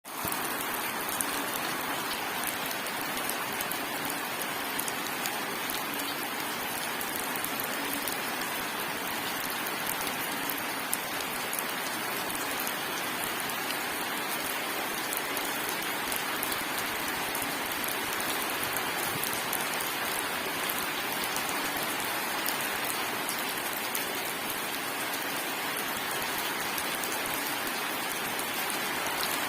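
Steady rain falling: an even, unbroken hiss with the fine ticking of individual drops striking a surface.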